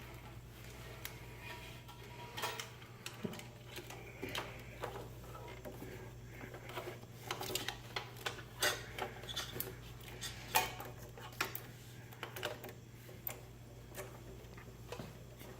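Irregular light clicks and clinks of hands working with small hardware, scattered unevenly, over a steady low hum.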